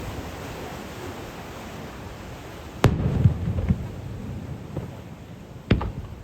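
Aerial fireworks shells bursting: a loud sharp boom about three seconds in, followed by a second of rumbling, lower thuds, then a second sharp boom near the end.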